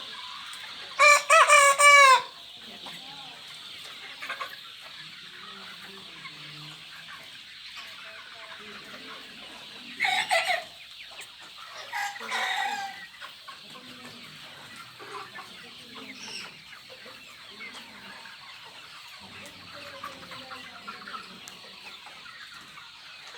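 A large flock of Kaveri chickens clucking and chattering throughout. A rooster crows loudly about a second in, and two shorter loud calls ring out around ten and twelve seconds in.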